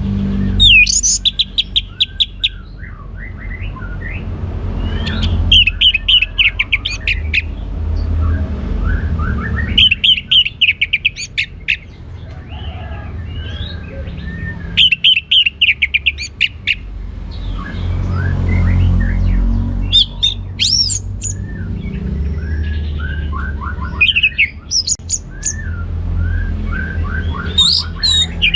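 Orange-headed thrush singing: loud bursts of rapid repeated notes come about every four to five seconds, with softer whistled and warbling phrases between them. A steady low rumble lies underneath.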